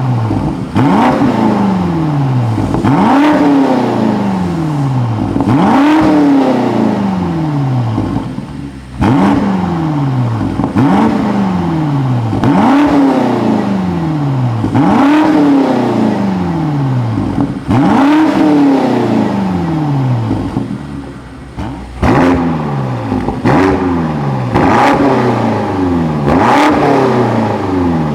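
BMW X5 M (F95) twin-turbo V8 through a Brillante valved aftermarket exhaust, free-revving over and over. Each blip climbs quickly and then falls slowly back toward idle.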